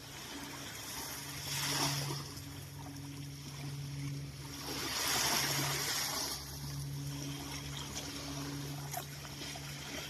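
Small sea waves washing in on a beach, swelling twice, over a steady low hum of a distant motor.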